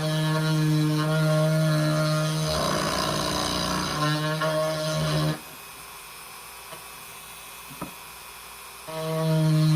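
A small handheld electric power tool running at a steady speed, with a rougher, noisier stretch as it bites into the wood. About halfway through it switches off, leaving a few seconds of low background with a couple of faint clicks, then it starts up again near the end.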